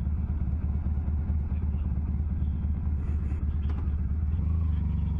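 Motorcycle engine idling, a steady low pulsing rumble.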